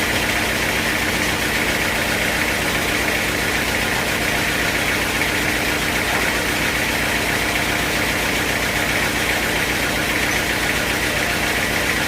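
Engine running steadily at an even speed, with a fine regular low pulsing and a hiss higher up that never changes.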